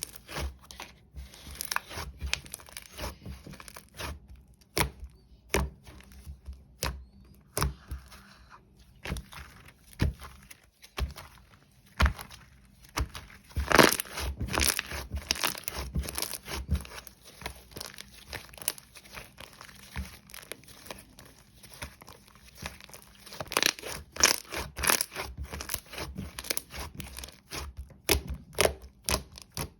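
Paper being handled close up: irregular crinkling and rustling with many short, sharp crackles and taps.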